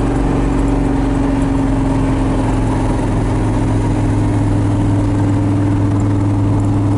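Supercharged engine of an XB Ford Falcon Interceptor replica running at a steady speed, a constant low drone that holds its pitch with only a slight dip about three seconds in.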